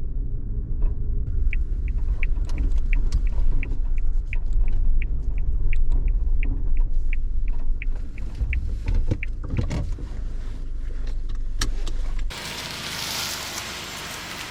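Suzuki Jimny driving slowly, a low rumble heard inside the cabin, with the turn-signal relay clicking about three times a second as it turns in at the destination. About twelve seconds in the rumble cuts off abruptly and a steady, quieter hiss takes over.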